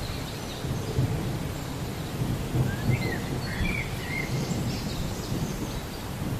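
Rain and thunder ambience: a steady hiss of rain over a low, rolling rumble of thunder, with a few short bird chirps about halfway through.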